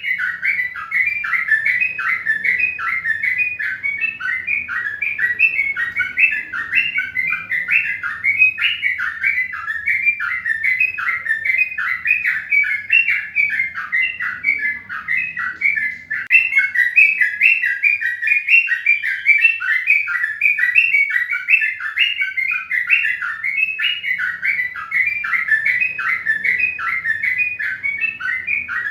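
Birds chirping in a dense, unbroken stream of short notes.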